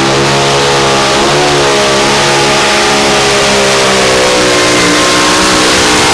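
Supercharged pulling engine running hard at high revs under load, its pitch dipping briefly about a second in, then holding and sagging slightly.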